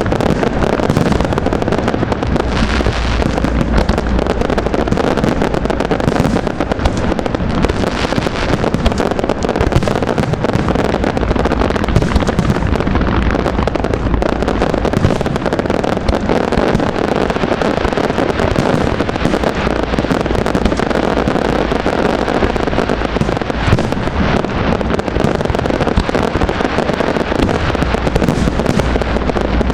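Aerial fireworks display going off in a dense, continuous barrage: many bursts and crackles in quick succession, with no let-up.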